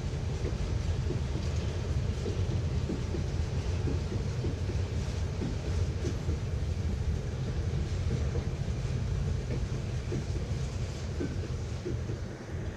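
Freight train rolling past on the rails: a steady low rumble of wagons with irregular light wheel clicks, starting to fade near the end.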